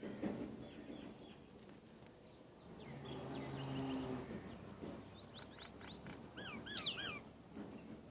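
Small birds chirping with short high calls and quick gliding notes, busiest about two-thirds of the way in, where one bird gives three swooping notes in a row. A low steady hum rises briefly around the middle.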